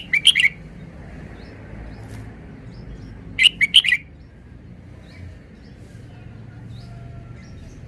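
Red-whiskered bulbul singing two short, loud phrases of a few quick notes, one at the start and another about three and a half seconds in, with faint chirps between.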